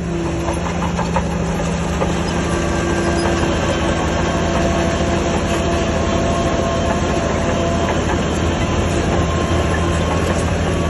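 Heavy diesel earthmoving machine running steadily under load, with a continuous metallic clatter.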